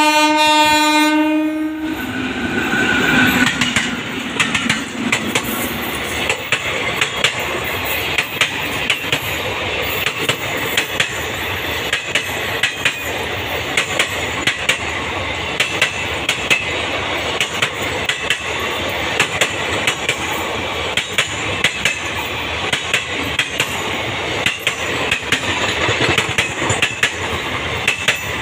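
Horn of an electric locomotive, one long, steady blast that stops about two seconds in. Then the express train's passenger coaches roll past at speed: a steady rumble with a regular clickety-clack of wheels over the rail joints.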